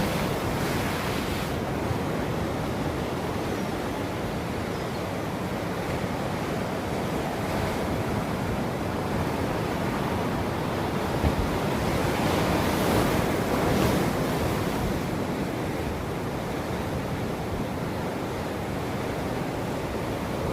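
Ocean surf: waves breaking and washing ashore in a continuous rush, swelling louder a little past the middle.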